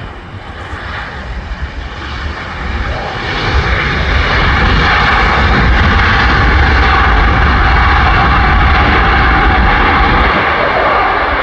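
Jet airliner engines, the noise swelling over the first few seconds and then holding loud and steady, easing slightly near the end.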